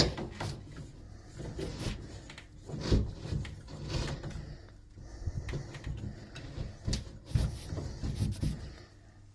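Irregular knocks, clunks and scraping of a shower pod's parts and fittings being handled and pushed back into place.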